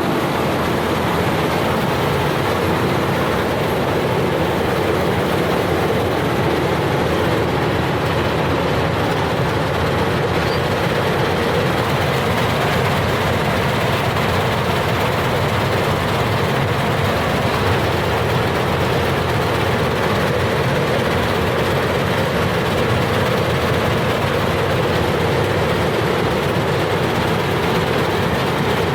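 Harvester machine running steadily at working speed, a loud, even mechanical noise with no letup.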